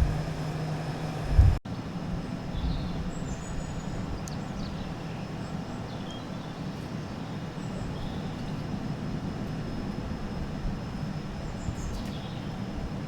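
A loud low rumble stops abruptly about a second and a half in. A steady, quieter low rumble of a distant diesel train follows, with faint bird chirps above it.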